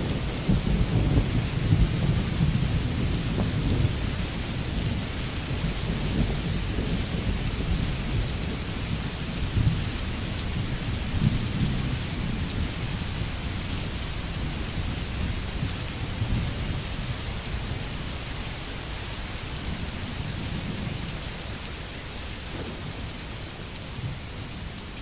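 Steady rain with distant thunder rumbling, loudest at the start and slowly dying away.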